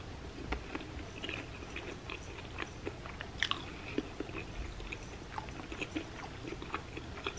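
Close-miked chewing of a deep-fried ham and cheese croquette with a crushed Cheetos crust, with scattered soft crunches and wet mouth clicks.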